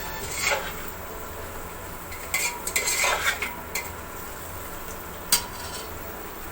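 A spoon stirring and scraping food in a cooking pot, with a few scraping clatters and one sharp knock against the pot about five seconds in, over a faint sizzle from the pan.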